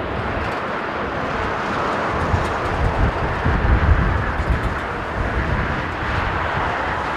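Jet airliner engines roaring, with strong gusty wind buffeting the microphone, heaviest about three to four and a half seconds in.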